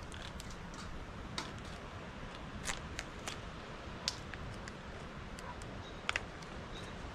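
Small food packets and wrappers being handled and squeezed: scattered short clicks and crinkles over a steady low rumble, with a sharp pair of clicks about six seconds in.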